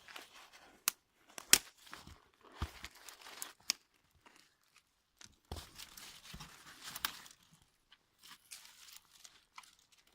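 Dry, resin-soaked twigs snapping and rustling against bark and paper as kindling is laid for a campfire, with several sharp cracks among the rustling.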